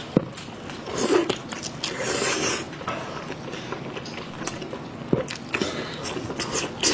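A person eating seafood up close to the microphone: biting and chewing, with scattered sharp clicks and short wet smacks.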